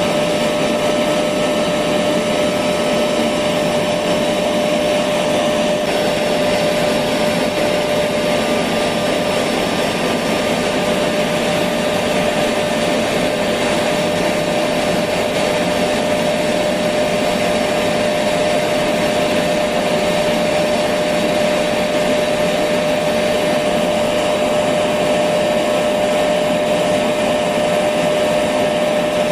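Electric vacuum cleaner running steadily, a continuous motor whine over a dense rushing of air, without change.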